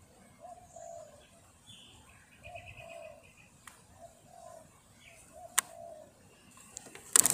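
Birds calling in a tree: short, low cooing notes repeat about once a second, with a brief higher chirping trill about two and a half seconds in. A sudden loud burst of noise cuts in just before the end.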